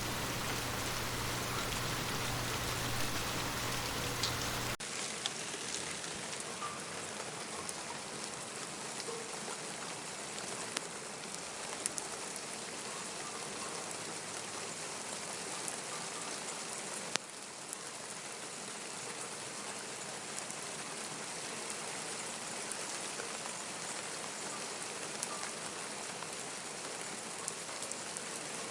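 Steady rain falling, an even hiss with scattered sharp drip ticks. About five seconds in, the sound changes abruptly to a thinner hiss with less low rumble.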